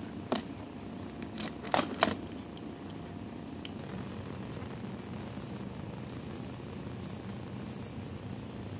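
A small bird outdoors chirping in quick groups of short, high notes, starting about five seconds in. Earlier come a few sharp clicks.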